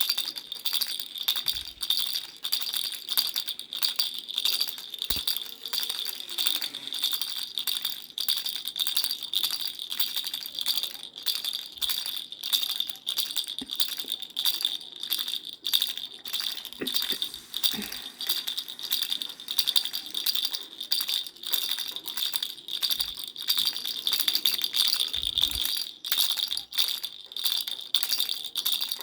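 A baby's rattle being shaken continuously, a steady run of quick, bright rattling strokes without pause.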